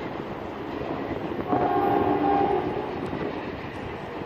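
CSX freight cars of a trash train rolling past close by, a steady rumble and clatter of wheels on rail. About a second and a half in, a train horn sounds one chord for about a second, the loudest thing heard.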